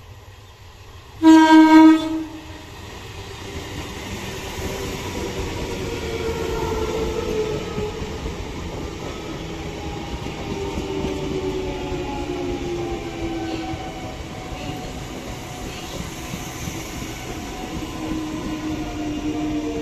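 Electric multiple-unit local train sounding one short horn blast about a second in. It then approaches and runs past close by with a steady running rumble, under a whine that slowly falls in pitch.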